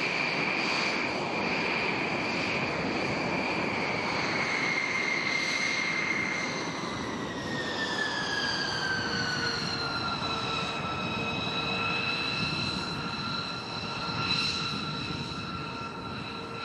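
Jet aircraft engine running, a loud rumble under a high whine that falls in pitch over several seconds in the middle, as of a jet passing by, then holds steady.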